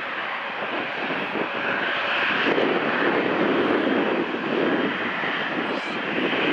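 Airliner engines running, a steady broad rushing that swells slightly in the middle.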